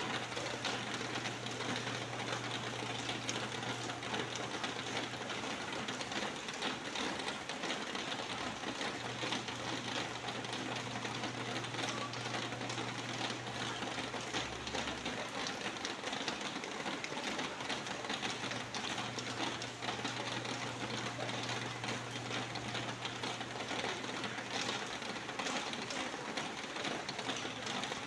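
Steady rain falling, a dense even patter of many drops, with a low steady hum underneath that drops out now and then.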